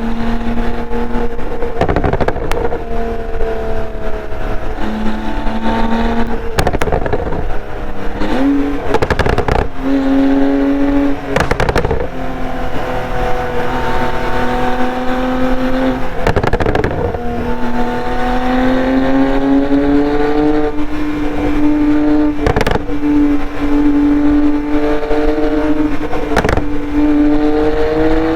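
2015 Porsche 911 Turbo S's twin-turbo flat-six running through a SOUL Performance exhaust under steady driving, its note holding, then rising and falling with the throttle and stepping in pitch several times, with brief sharp breaks in the sound along the way.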